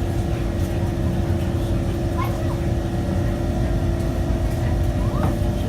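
Inside an SMRT Kawasaki C151 train car while it runs between stations: a steady low rumble of the wheels on the track under a constant hum. There are a few short, faint high chirps.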